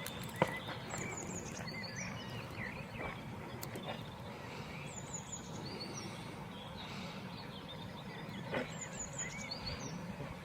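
Small birds calling outdoors. Three times, a quick run of three or four very high, falling notes sounds, with scattered lower chirps in between, over a steady low background rumble.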